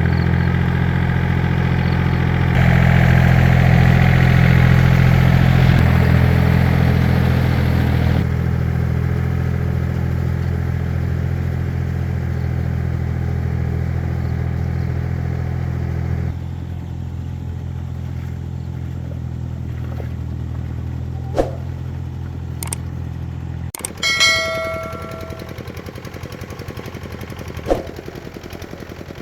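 A two-wheel walking tractor's engine runs steadily and eases down in steps, then cuts off abruptly about 24 seconds in. A few sharp clicks and a short, ringing metallic clank follow.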